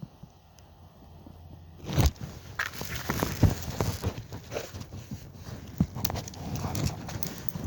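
Quick, irregular footsteps with knocks and rattles of gear, starting suddenly about two seconds in after a quiet moment.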